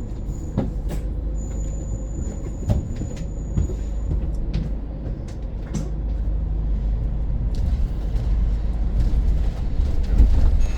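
Interior of a BYD electric bus on the move: a steady low rumble with rattles and clicks from the body, a thin high whine for the first few seconds, and the rumble growing louder over the second half.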